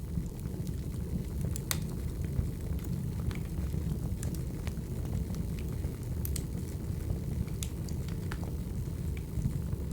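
Wood fire burning: a steady low rumble with sharp, irregular crackles and pops scattered throughout.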